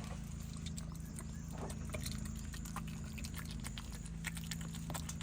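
Coatis eating, with irregular small clicks and crunches of chewing and handling food, over a steady low hum.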